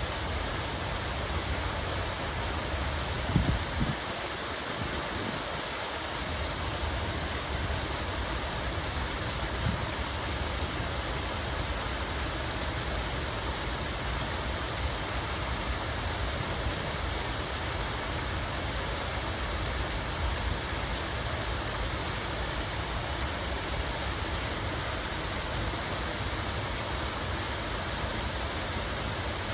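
Water running steadily in a continuous, even rush. A brief low thump or two about three to four seconds in.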